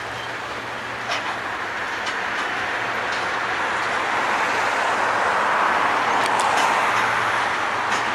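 Freight train hauled by two diesel locomotives rolling past, a steady rumble of wheels and wagons with a low engine hum underneath. It grows louder toward the end, with a few light clicks.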